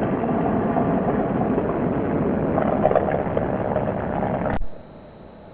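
Chevrolet Camaro SS's 6.2-litre LT1 V8 running under way, exhaust and road noise loud and steady. It cuts off suddenly about four and a half seconds in.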